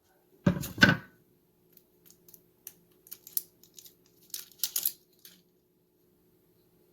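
A kitchen knife cutting an onion in half, knocking twice on the cutting board about half a second in, then a few seconds of light clicks and crackles as the dry, papery onion is handled and cut.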